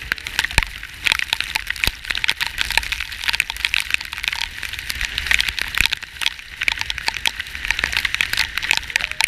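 Heavy rain pelting down: a dense, rapid patter of sharp drop hits over a low steady rumble.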